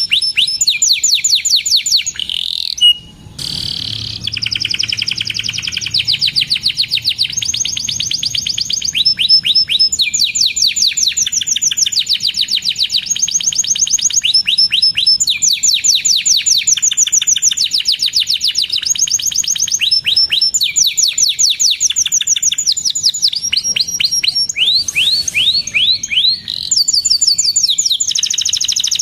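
Domestic canary singing a long, continuous song of fast rolling trills and rapid chirps, the phrases changing pitch every second or two with hardly a pause.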